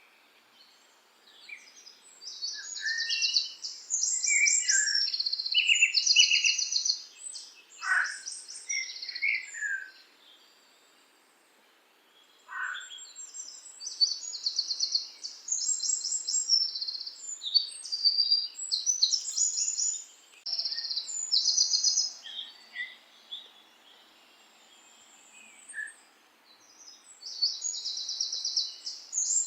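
Songbirds singing: bursts of high, rapid trilled phrases and short chirps, broken by brief lulls.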